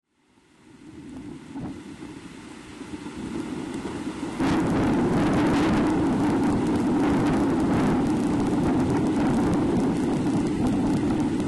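Steady rain and wind noise on an outdoor nest-cam microphone: a dense hiss that fades in and grows suddenly louder about four seconds in.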